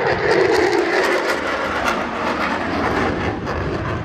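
F-16 Fighting Falcon jet noise from a low knife-edge flyby: loud and continuous with a crackle. A strong tone sinks slowly in pitch as the jet goes by.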